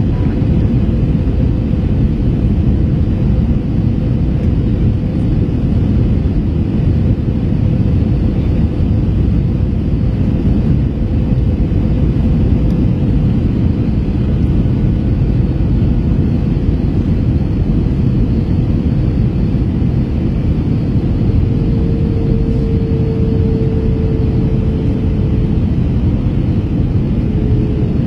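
Airbus A321 cabin noise in flight on approach: a steady rumble of engines and airflow, with a faint steady hum on top and a slightly lower hum for a few seconds about three quarters of the way through.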